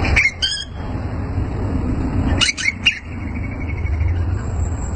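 Cucak ijo (green leafbird) singing in two short bursts of high, quick notes, one near the start and one about halfway, over a steady low rumble.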